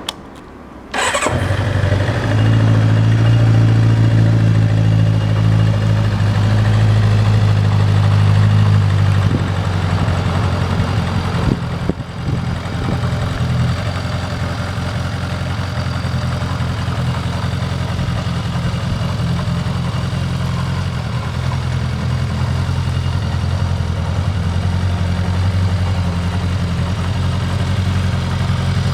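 Kawasaki Zephyr 400's air-cooled inline-four engine starting about a second in. It runs at a raised idle for about eight seconds, then settles to a steady, lower idle.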